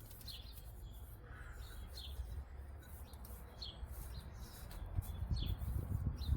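Small birds chirping outdoors, short separate chirps about once a second, over a low rumble that grows louder near the end.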